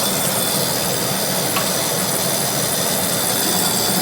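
Caterpillar 3208 V8 diesel engine running steadily in a Ford truck, shortly after a cold start.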